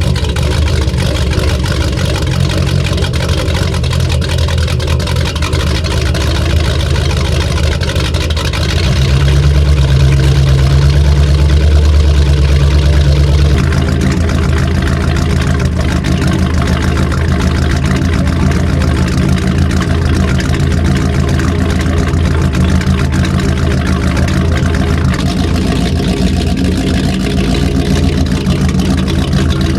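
Mercruiser 350 small-block 5.7-litre V8 inboard engine running steadily. It is brought up to a higher, louder speed from about nine seconds in for around four seconds, then settles back.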